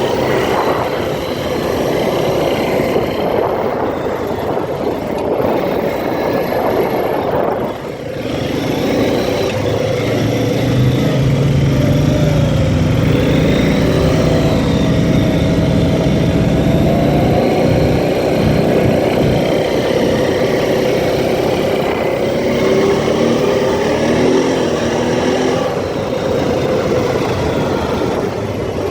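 ATV engine running under way over rough ground, its pitch rising and falling as the throttle changes, with a steady rumble. The level dips briefly about eight seconds in.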